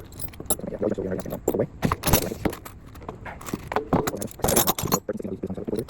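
Hand wrenches clinking and scraping against one another in quick, irregular knocks as they are picked out and set down.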